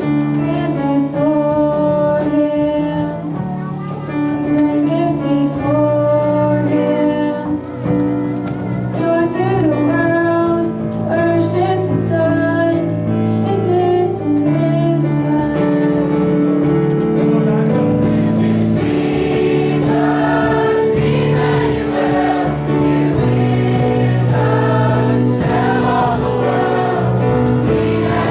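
School choir singing a Christmas song with instrumental accompaniment.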